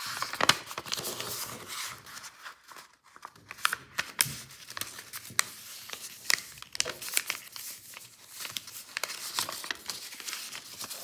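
A sheet of paper being handled and folded: irregular crinkling and rustling with many sharp little crackles as the paper is bent and creased.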